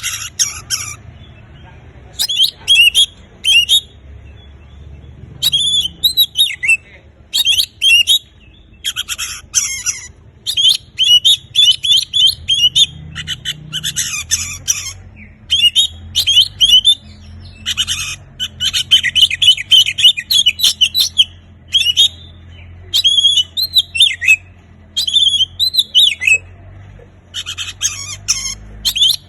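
Oriental magpie-robin (kacer) singing in short, loud phrases of rapid varied whistles and chattering notes, broken by brief pauses, over a faint steady low hum.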